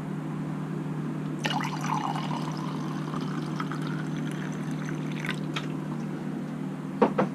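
Water poured into freshly squeezed lemon juice, starting about a second and a half in and stopping about four seconds later, over a steady low hum. A short knock near the end.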